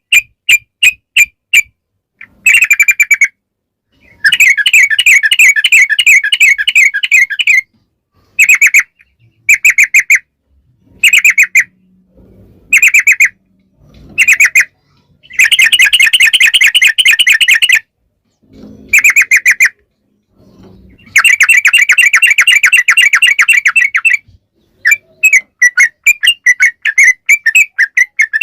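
Yellow-vented bulbul (trucukan) singing its long rapid song: bursts of quick, repeated bubbling notes. Short phrases alternate with several unbroken runs of about three seconds, separated by brief pauses.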